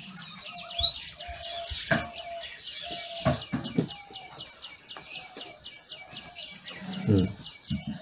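Birds chirping: a fast, even run of high chirps, with shorter, lower calls about once a second and a few sharp knocks.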